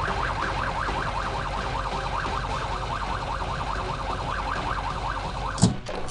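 Police siren sound effect yelping: a fast rising sweep repeating about four to five times a second over a low rumble. It stops with a loud thump near the end.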